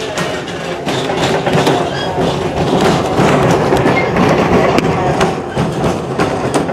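Train car rolling along the track, heard from on board: a steady rumble with wheels clicking over the rail joints, growing louder about a second in.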